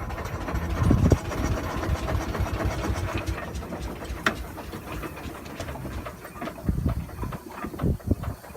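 6-inch scale Burrell showman's steam traction engine running: steam exhaust beats and hiss with mechanical clatter, louder at times, and one sharp click about four seconds in.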